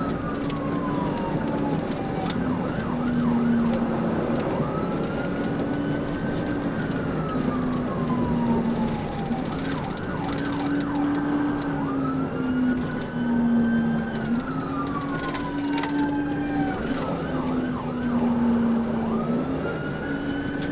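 Police car siren in wail mode, its pitch rising and falling in slow sweeps every few seconds, over the running patrol car's road noise. A lower tone underneath steps back and forth between two pitches.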